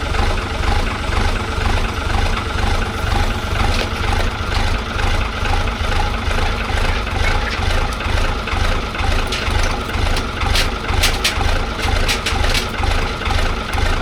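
An engine running steadily at idle, with a few sharp clicks about ten to thirteen seconds in.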